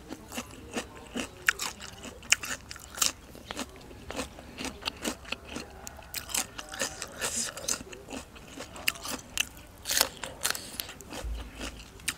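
Close-up mouth sounds of chewing a crisp raw vegetable: many sharp, irregular crunches with wet chewing in between.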